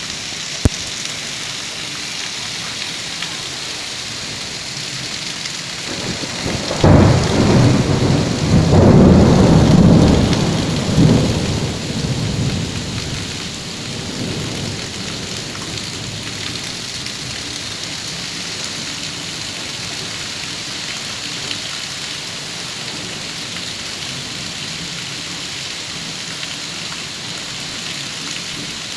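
Steady heavy rain falling, with a single sharp click under a second in. About seven seconds in, a loud rolling rumble of thunder lasts roughly five seconds and fades back into the rain.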